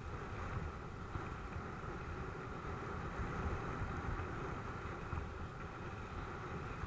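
Steady wind buffeting the microphone, with a low rumble of tyres rolling over dirt, from a mountain bike being ridden.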